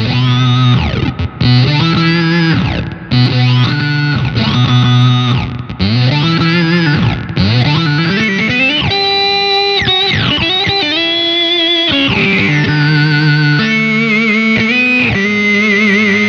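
Electric guitar played through an EarthQuaker Devices Data Corrupter PLL synthesizer/harmonizer pedal, giving buzzy synthesized tones. For the first half, notes start and stop about once a second with pitch swooping up and down between them; in the second half, longer held notes with a wobbling pitch.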